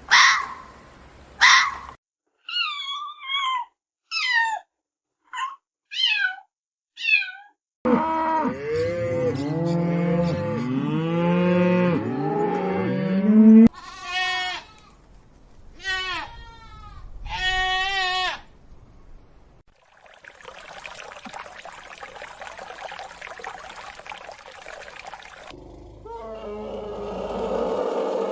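A run of farm-animal calls. First come several short high calls sliding down in pitch, then many bleats overlapping as from a herd, then three separate drawn-out bleats about two seconds apart. Near the end there is a stretch of steady noise without calls.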